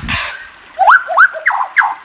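Murai songbird calling: a short harsh rasping note, then a quick series of four whistled notes, each sweeping sharply upward in pitch.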